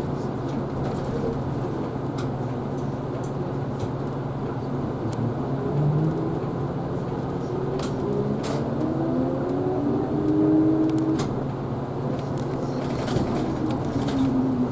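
Isuzu Erga Hybrid city bus running, heard inside the cabin: a steady low hum, with a whine that rises in pitch from about eight seconds in and levels off near eleven seconds, and scattered light clicks and rattles.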